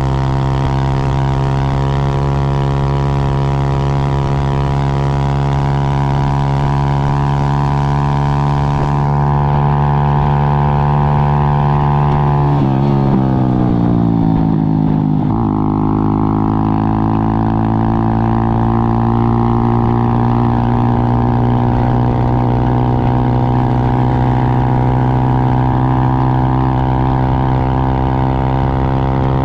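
Motorcycle engine running at a steady cruise. About thirteen seconds in, its note drops as the bike slows, then rises again as it picks up speed and settles back into an even drone.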